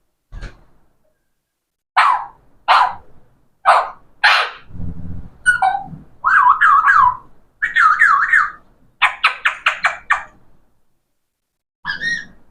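Pet parrot calling: four short harsh squawks, then warbling whistles that swoop up and down, then a quick run of short chirps about a second long.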